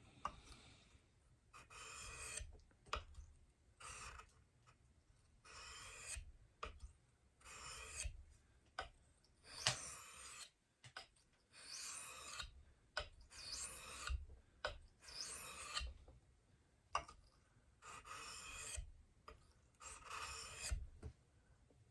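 Knife blade drawn across a wet Japanese water stone in slow, even strokes, each a short scraping rasp, about one every two seconds.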